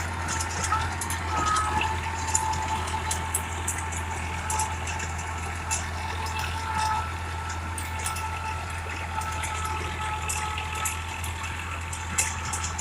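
Massey Ferguson 5245's three-cylinder diesel engine running steadily, with light clicking and rattling over the even engine note.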